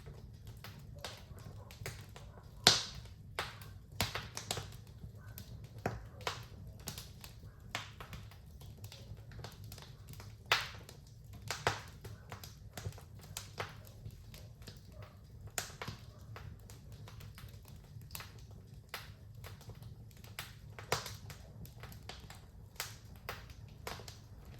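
Wood fire crackling: irregular sharp pops and snaps several times a second over a low steady rumble of flames, with a louder pop about three seconds in.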